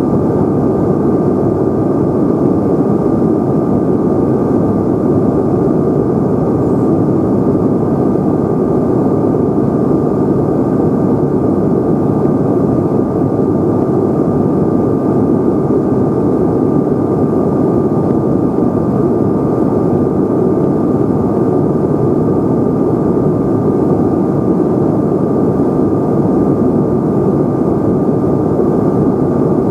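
Steady cabin drone of a Bombardier CRJ-900's rear-mounted General Electric CF34 turbofan engines and rushing air, heard inside the cabin, with a thin steady whine above it.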